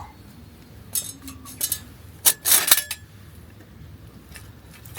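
Metal camp cookware and utensils being handled: a few short clinks and rattles, the loudest cluster about two and a half seconds in.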